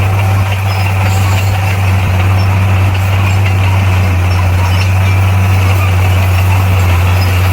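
Diesel engine of heavy earthmoving machinery running steadily at a constant speed: a loud, even low drone with no revving or knocks.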